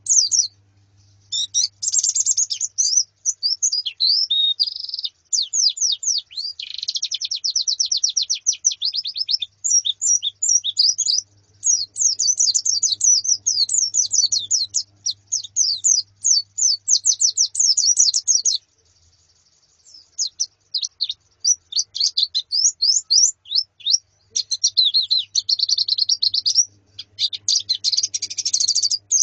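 A colony of white-eyes (pleci) twittering: rapid high chirps tumble over one another almost without a break, dropping out briefly about two-thirds of the way through.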